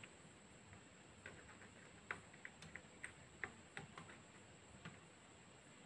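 Near silence broken by about ten faint, irregular light clicks and taps from small parts and tools being handled while fitting a new IC onto an amplifier board.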